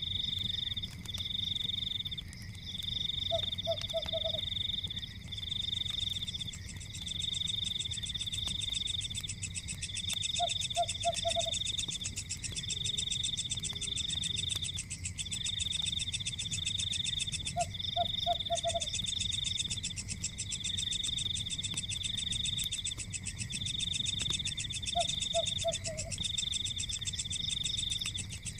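Night chorus of trilling frogs: a high, pulsing trill repeats in phrases about a second long with short breaks. A higher, finer insect-like buzz joins about six seconds in. A short low call of three or four quick notes comes every seven seconds or so, over a low steady rumble.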